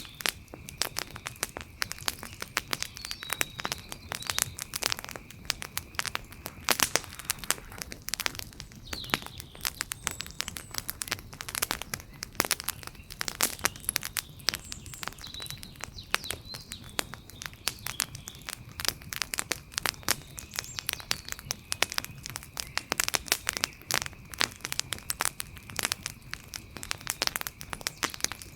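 Fire crackling with dense, irregular pops and snaps, several loud sharp cracks among them, over a faint steady high tone. A few faint high chirps come and go.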